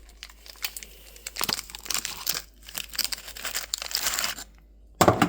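Crinkling and tearing of a dishwasher cleaning tablet's wrapper as it is opened by hand, in irregular crackles, followed by one loud knock near the end.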